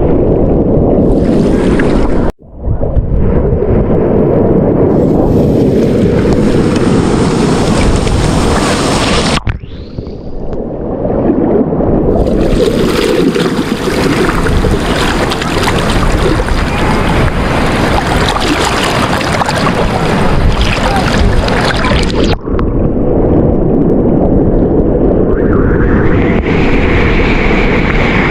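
Sea surf and strong wind blowing on the microphone, a loud steady rush, in several clips cut together with brief breaks between them.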